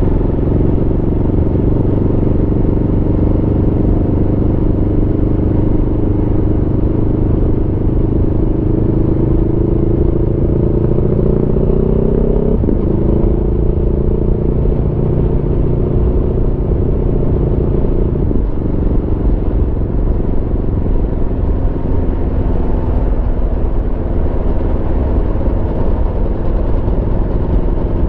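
Aprilia Tuono V4 motorcycle's V4 engine under way, its pitch climbing slowly as it accelerates. About twelve seconds in and again about eighteen seconds in, the pitch drops suddenly as the rider shifts up. It then runs steadily at a lower pitch, over a constant rumble of wind and road noise.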